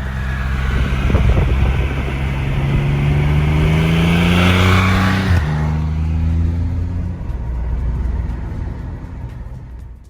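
Triumph Rocket 3 R's 2.5-litre three-cylinder engine accelerating, its note rising, then dropping sharply at an upshift about five seconds in. It pulls on through the next gear and fades near the end.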